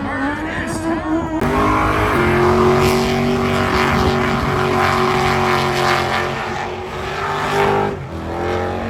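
Car engine revving during a burnout: the pitch climbs over the first second or so, holds high and steady for several seconds, drops briefly about eight seconds in, then climbs again.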